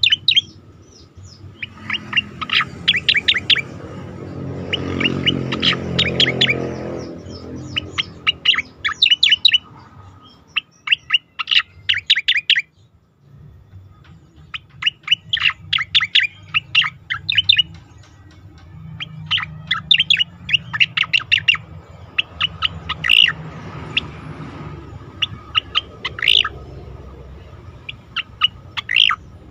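Cica koreng (striated grassbird) singing: repeated phrases of quick, high chirping notes, each about a second long, separated by short pauses, with a longer break about halfway through. A faint low hum runs underneath.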